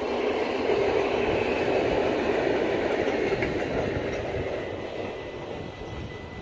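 Electric train, a motor postal unit with a 1200-class locomotive and a carriage, rumbling past on the rails. The running noise is loudest in the first couple of seconds, then fades as the train draws away.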